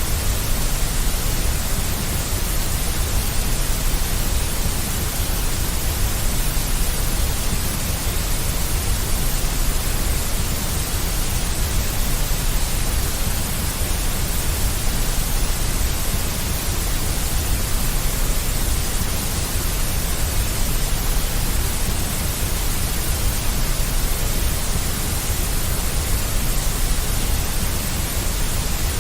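Steady, unbroken synthetic white noise with a deep low rumble under a bright hiss, the same from start to end.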